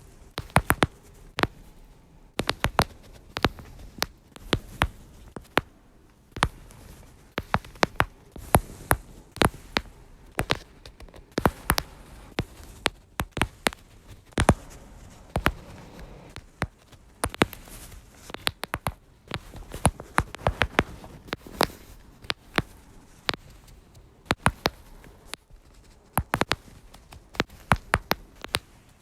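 Lower-back joints cracking: a long run of sharp pops and clicks, many of them coming in quick clusters of two or three.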